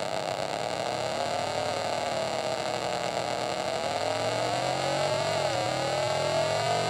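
Homemade electronic sound effects synthesizer, built from Angelis Electronics and Velleman kits, playing a continuous grainy electronic drone through its speaker. Its pitch sags, then slowly rises, with a quick wobble near the end.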